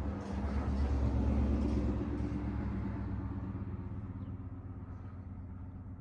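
A vehicle passing by, heard through an open garage door: a low rumble that swells over the first second or two and then slowly fades.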